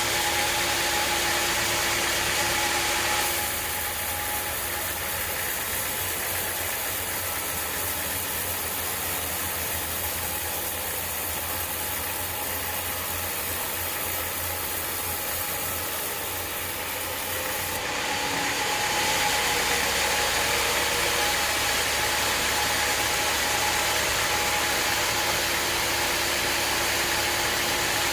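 Log sawmill machinery running steadily with a motor hum. About three seconds in the sound abruptly changes to a hissier, slightly quieter run without the hum, then switches back near eighteen seconds, fitting the saw going into and out of a cut through acacia wood.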